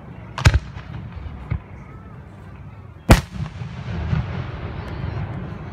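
Aerial firework shells bursting: two loud bangs, about half a second in and just after three seconds, with a smaller bang in between and a few faint pops after the second.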